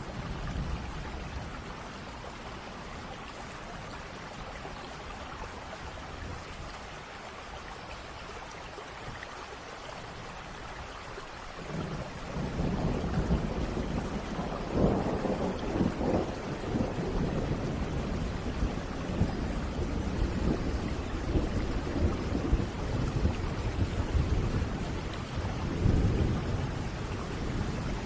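Steady rain with a long roll of thunder. The rumble builds about twelve seconds in, is loudest a few seconds later, and keeps rolling until near the end.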